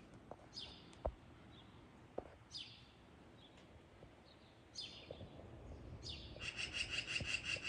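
Birds calling faintly: four high calls that sweep downward, about two seconds apart, then a fast, even trill of rapid repeated notes starting about six seconds in. Two light knocks come near the start.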